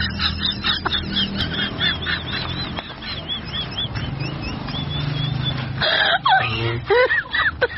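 Birds calling: a quick series of short rising-and-falling calls, about three a second, then louder, lower calls near the end.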